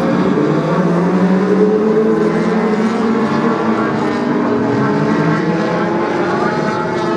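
Several BriSCA F2 stock car engines running hard at once, overlapping pitches rising and falling as the cars accelerate and lift off through the turns of the oval.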